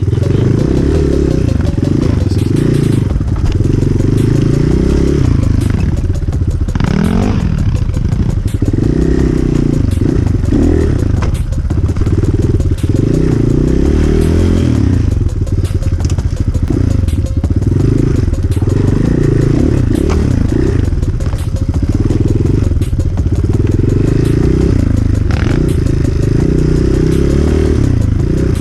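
Enduro motorcycle engine being ridden hard off-road, revs rising and falling again and again as the throttle is worked, with clattering and knocks from the bike over rough ground.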